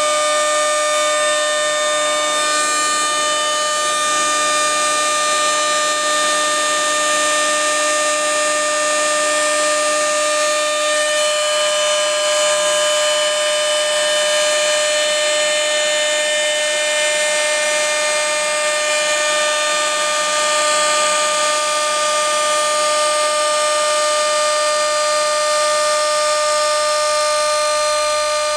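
CNC machine cutting acrylic sheet: a steady high-pitched machine whine with a hiss over it, unchanging throughout.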